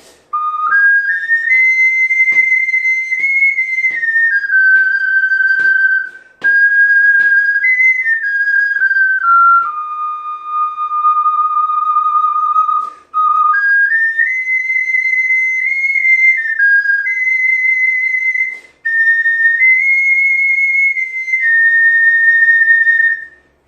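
Soprano G ocarina playing a slow, legato melody solo, moving stepwise in a high register, with each note tongued and three short breaks for breath.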